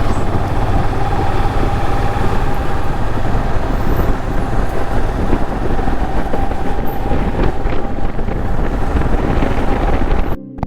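Royal Enfield Himalayan single-cylinder motorcycle running at road speed, with heavy wind noise rushing over the rider's camera microphone. The sound cuts out for a moment near the end.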